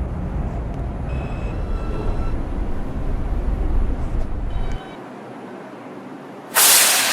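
Steady low rumble inside a stopped R142 subway car that drops away abruptly a little over halfway through. Near the end comes a sudden loud hiss of escaping compressed air that fades over about a second.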